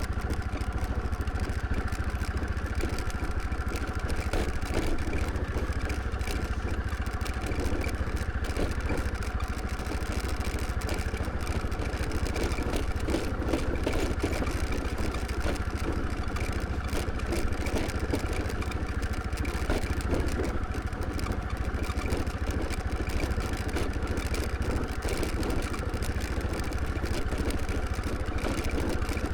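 Motor scooter's small engine running steadily while riding, with a constant low rumble underneath.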